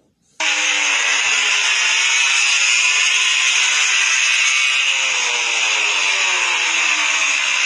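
MotoGP race bike engines running at high revs on the circuit: a loud, high-pitched howl that starts suddenly about half a second in, its engine note slowly falling.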